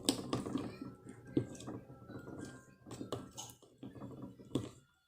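Homemade slime being worked and squished, making a run of irregular sticky clicks and knocks, with a utensil tapping against a dish. It cuts off abruptly at the very end.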